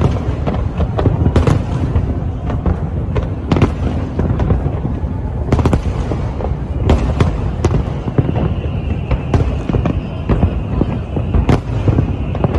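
Big fireworks display: a dense run of sharp bangs over a continuous low rumble of bursts. A faint high steady tone joins about eight seconds in.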